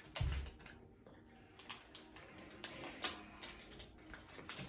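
A dull thump about a quarter second in, then scattered light clicks and rustles of handling.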